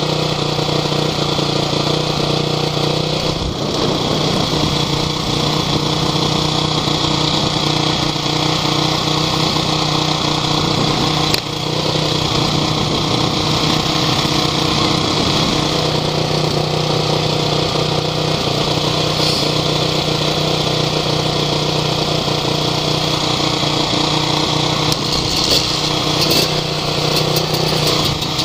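Off-road vehicle engine running at a steady speed, heard close up, with a single knock about eleven seconds in and some rattling near the end.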